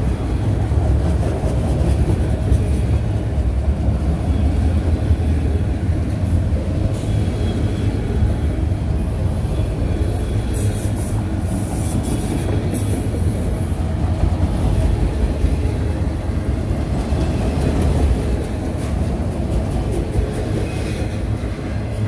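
A train rolling past: the steady, loud rumble of its cars on the rails, easing off slightly near the end.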